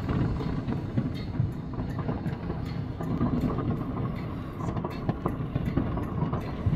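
Many distant fireworks going off at once: a continuous rumble of bangs with scattered sharp cracks.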